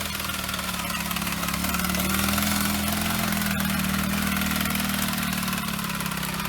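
An off-road vehicle's engine running steadily, its level rising a little about two seconds in. One short click is heard a little past the middle.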